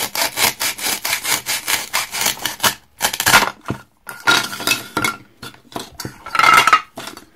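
A toy knife sawing through a play-food vegetable on a toy cutting board. There is a quick run of rasping, crackling strokes for about three seconds, then three shorter scraping bursts.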